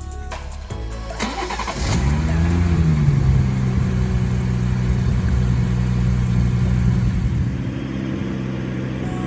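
A car engine cranks briefly and catches about two seconds in, flares up in revs and falls back, then settles into a steady idle.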